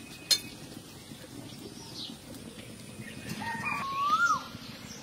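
A sharp metal clank near the start as the metal kadai is handled. About three seconds in a bird calls: a few short low notes, then a longer note that rises and drops away.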